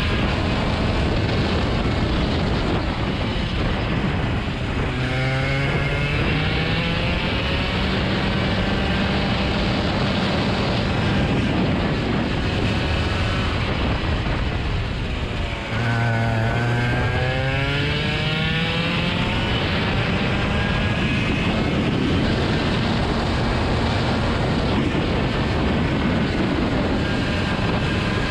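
Car engine running under load, its revs climbing steadily twice: about five seconds in, and again about sixteen seconds in after a brief lift.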